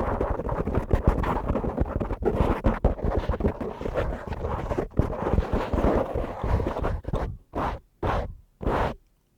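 Brush rubbed quickly against a microphone: a dense run of fast scratchy strokes, which near the end breaks into three separate short sweeps and then stops.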